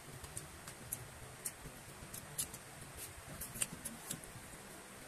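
Close-up chewing and lip-smacking: quiet, irregular small wet clicks, a few a second, one sharper click about three and a half seconds in.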